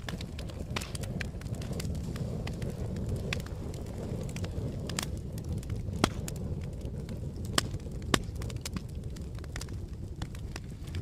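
Campfire burning with a steady low rumble and irregular crackling, with a few louder pops about six to eight seconds in.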